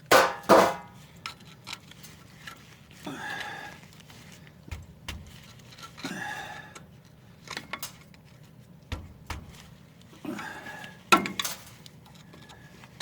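Metal clanks and scrapes of hand tools on disc brake parts: two sharp knocks right at the start, a few short scraping sounds, then two more sharp knocks near the end.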